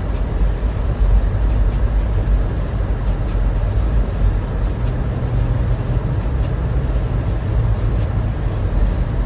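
Car driving: steady engine and road rumble heard from inside the cabin, with a low hum coming in about halfway through.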